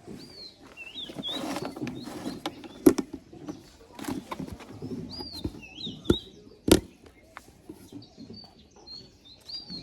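Small birds chirping in short, quick up-and-down calls, repeated throughout, over low background noise. A few sharp knocks cut through, the loudest about three seconds in and twice more around six to seven seconds in.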